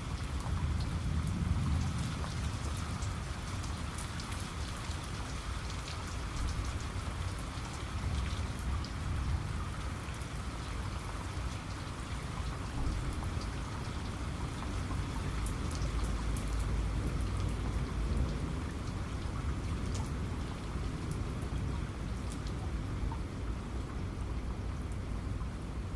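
Steady heavy rain falling, with many separate drops ticking over the hiss and a low rumble of thunder underneath that swells twice.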